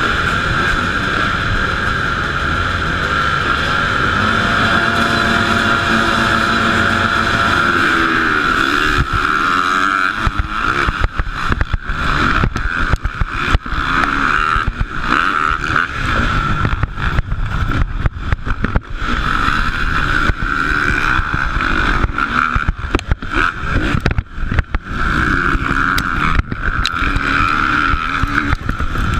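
Motocross motorcycles racing, their engines held at high revs in a continuous high-pitched drone. From about ten seconds in, the sound is broken by many brief dropouts.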